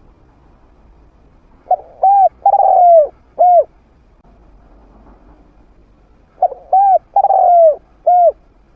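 Spotted dove cooing: two phrases of four or five notes each, each note arching down in pitch, with a longer note in the middle. The two phrases come about four and a half seconds apart. The caller is a trained decoy dove with a medium-pitched voice.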